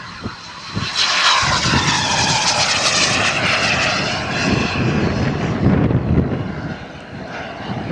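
Radio-controlled model aeroplane's engine during a fast, low fly-by. It comes in loud about a second in and its note falls steadily in pitch as the plane passes.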